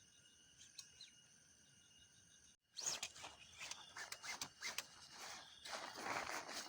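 Crickets chirping in a steady, faint night chorus. About two and a half seconds in, the sound breaks off abruptly, and louder irregular crackling and rustling noises take over.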